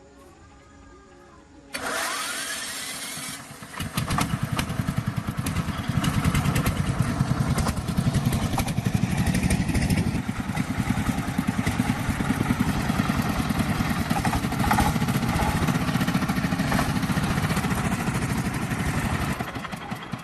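An engine is cranked and starts: a rising whine about two seconds in, then it catches and runs with a rapid, steady low beat, which dies away near the end.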